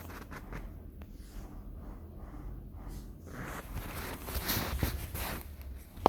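Hands working with garden material: a run of scraping and rustling noises, busiest in the second half, then one sharp click near the end.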